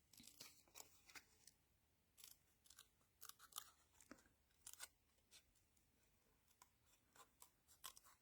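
Faint, irregular snips of small scissors cutting cardstock by hand around a stamped image (fussy cutting).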